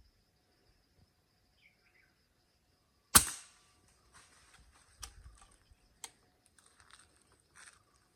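A single sharp shot about three seconds in, fired at a bird, followed by scattered crackling and rustling. A faint steady insect buzz runs underneath.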